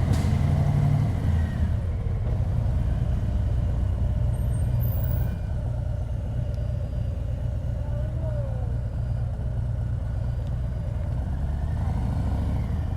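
Harley-Davidson Heritage's V-twin engine running steadily while riding, a continuous low rumble.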